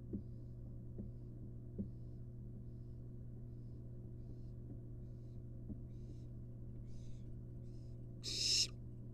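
Barn owl nestling's hissing begging calls: faint short hisses about once a second that grow stronger, then one loud hiss near the end. A steady low electrical hum runs underneath, with a few faint knocks early on.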